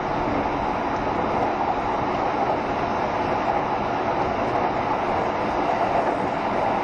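JR Shikoku 7200 series electric multiple unit running steadily along the line, a continuous rumble of wheels and motors with no change in speed.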